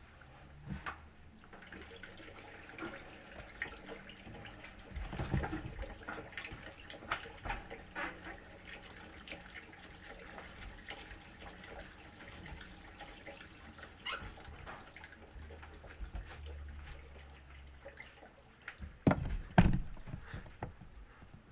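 Washing machine with water splashing and dripping inside it, with scattered small clicks. A few louder knocks come near the end.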